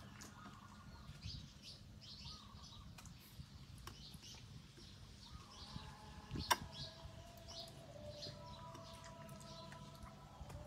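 Small birds chirping in the background, short high chirps repeating throughout, with one sharp click about six and a half seconds in.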